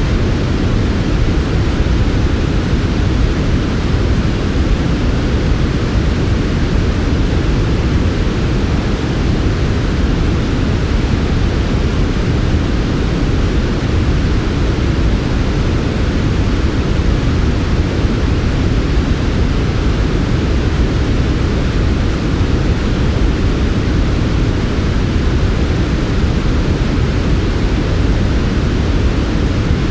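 Steady generated sleep noise, sold as smooth white noise but deep in tone, with most of its weight low down and a softer hiss above. It is even and unbroken throughout.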